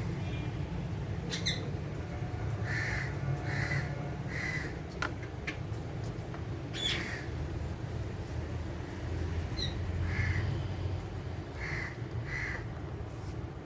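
Alexandrine parakeets giving short harsh calls, singly and in quick runs of two or three, with a couple of sharper sweeping calls among them, over a steady low hum.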